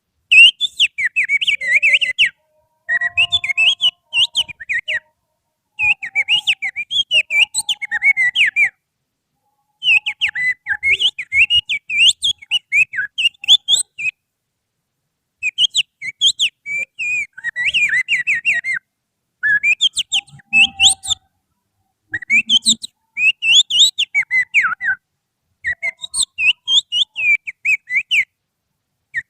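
Finger whistling imitating an oriental magpie-robin's (kacer) song: fast, varied warbling phrases, eight of them in a row, each a few seconds long with short silent breaks between.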